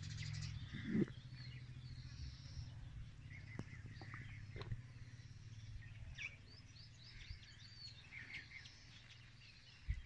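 Small birds chirping on and off in the background over a steady low hum, with a few faint clicks.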